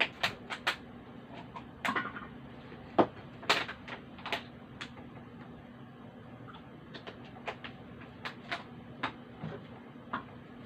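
Irregular sharp clicks and knocks, like a spoon or fork tapping and scraping against a dish while baby food is prepared, scattered through the stretch with a faint steady hum underneath.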